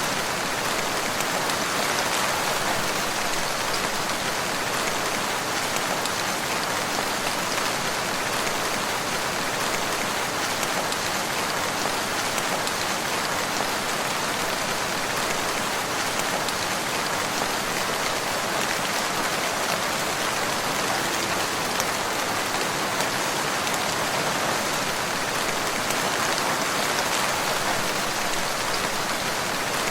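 Steady rain falling, an even dense hiss of many drops that holds at the same level throughout.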